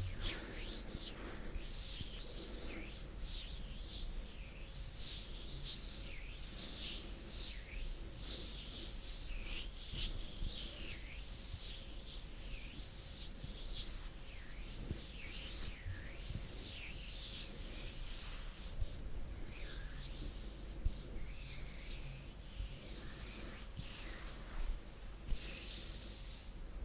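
Bare hands rubbing together slowly: continuous soft, swishing skin-on-skin strokes, with a couple of small sharper touches late on.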